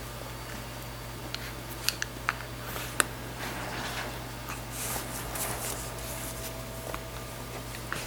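A few sharp light clicks followed by a stretch of rustling, over a steady low hum.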